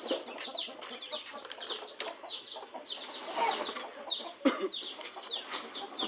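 A flock of chicks peeping nonstop: many short high calls, each falling in pitch, overlapping several times a second. A single sharp knock about four and a half seconds in.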